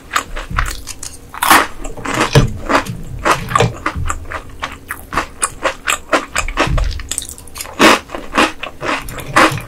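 Close-miked chewing and crunching of batter-fried ice goby: a run of irregular crisp crunches, the loudest about one and a half seconds in and again near eight seconds.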